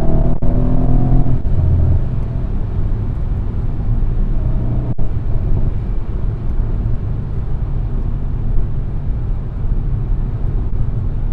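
Mercedes-AMG C63 S twin-turbo V8 running while the car is driven. A steady engine note fades after about two seconds, leaving a steady low rumble of the car cruising.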